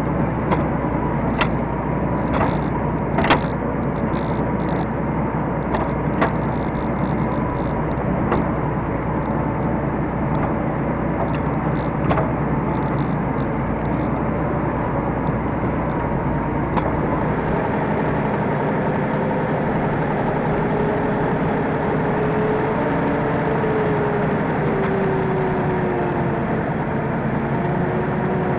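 T-150K wheeled tractor's diesel engine running steadily under work, with sharp knocks and rattles through the first dozen seconds. After about 17 s the deepest rumble falls away and a wavering whine comes in.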